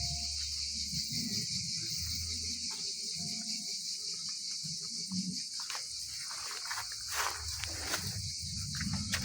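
Steady high-pitched chorus of insects chirring in summer countryside, with low rumbling and a few scattered clicks underneath.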